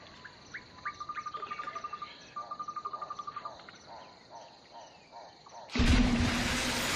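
Insect chirping in two rapid, even trills of about a second each, over faint outdoor ambience. Near the end a sudden loud rushing noise starts, with a low steady hum beneath it.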